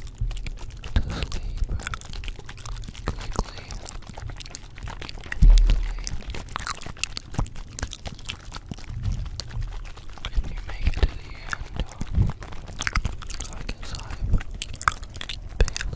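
Layered close-miked ASMR sounds: a dense, irregular run of crackles and clicks, with a low thump about five and a half seconds in.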